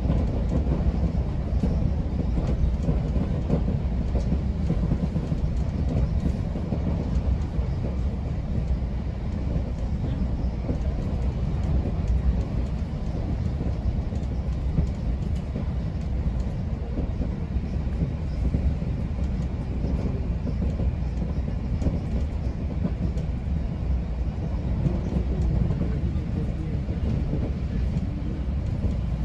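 GO Transit commuter train running at speed, heard from on board: a steady low rumble of wheels on rail with faint scattered clicks.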